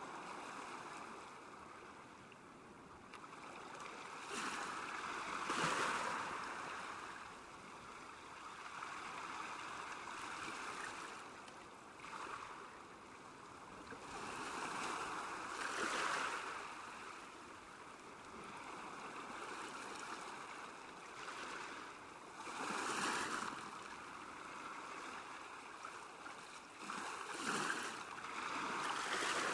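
Small waves lapping at a lakeshore: a steady wash of water that swells into a louder splash every several seconds, at uneven intervals, and falls back.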